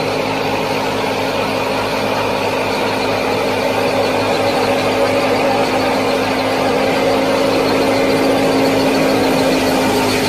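A small motor-driven model machine running steadily with a constant hum, growing a little louder about halfway through.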